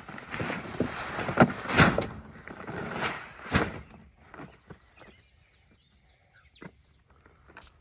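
Rustling noise broken by several sharp knocks for about four seconds, then much quieter, with faint bird chirps and a few light knocks.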